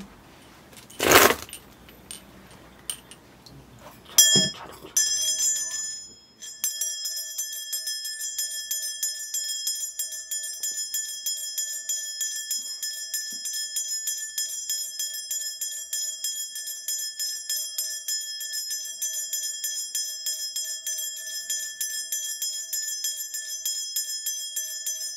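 A bunch of Korean shaman's bells (mugu bangul) shaken rapidly and without pause, a continuous ringing jingle, as the shaman calls on her spirits for the reading. In the first few seconds, before the jingling settles in, there are a few loud knocks or rustles.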